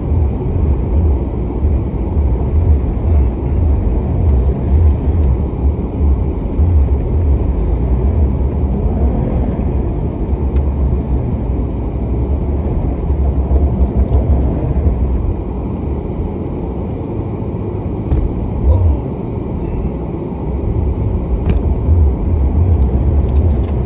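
A vehicle's engine running at idle, heard from inside the cab as a steady low rumble. It eases slightly partway through.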